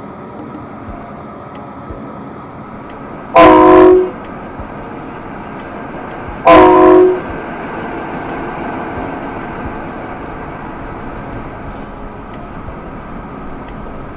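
Miniature railway locomotive sounding two short blasts on a multi-note horn, about three seconds apart, over the steady running noise of the train.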